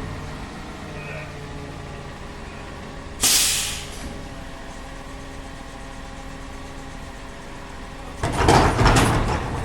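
Garbage truck engine idling steadily, with a short sharp hiss of released air a little after three seconds in, and loud clattering and banging starting near the end.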